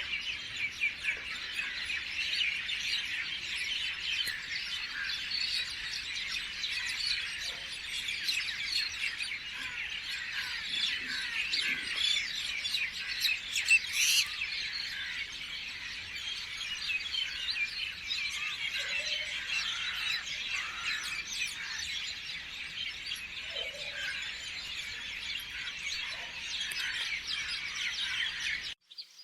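A dense chorus of many small birds chirping and twittering continuously, with a single sharp click about halfway through; the chorus cuts off suddenly shortly before the end.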